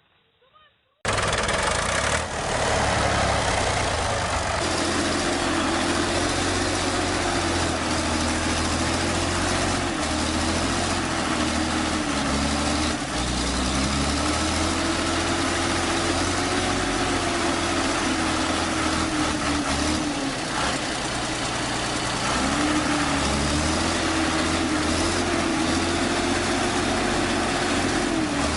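Tractor engine running hard under load, its pitch rising and falling again and again as the revs change, starting abruptly about a second in.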